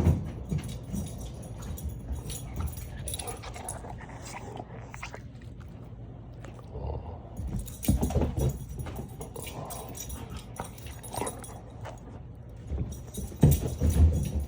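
A dog playing with a retrieved toy, with a few louder low bumps about eight seconds in and again near the end.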